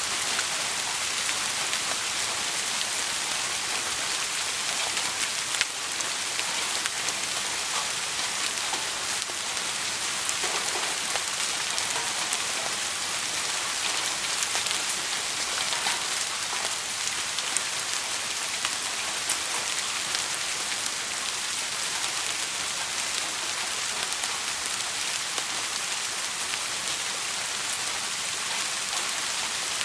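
Steady rain falling, a dense even hiss with scattered faint clicks of drops.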